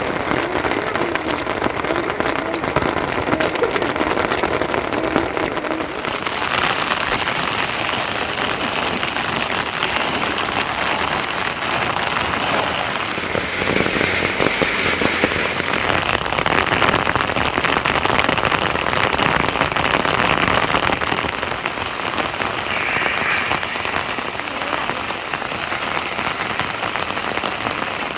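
Rain falling steadily and pattering on surfaces as an even hiss. The sound shifts in character abruptly about six seconds in and again later.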